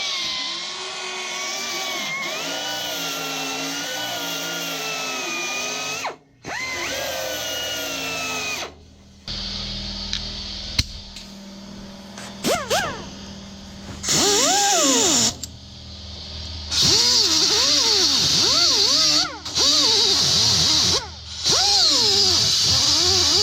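Electric grinder grinding down welds on a sheet-metal patch panel. At first it whines with a wavering pitch; then come bursts of harsh grinding hiss in which the motor's pitch sags and recovers as the disc bites the metal, with several brief stops between them.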